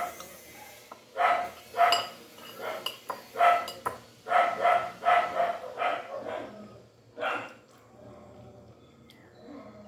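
A dog barking repeatedly in short bursts, about two a second, stopping about seven seconds in.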